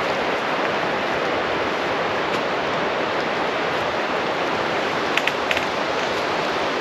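Steady rush of running creek water, with a few short campfire crackles about five seconds in.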